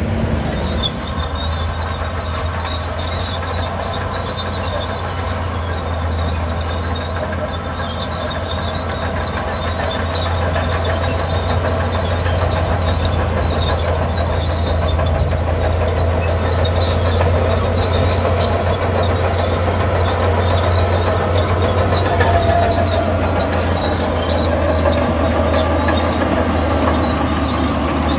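Crawler bulldozer working: its diesel engine runs with a steady low drone while the steel tracks squeal and clank, a little louder from about ten seconds in.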